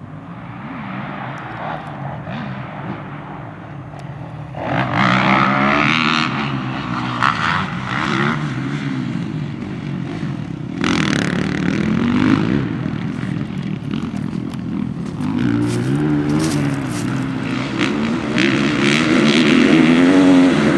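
Motocross bike engines revving up and down as riders accelerate and shift on a dirt track, fainter at first and then suddenly louder and closer about four and a half seconds in.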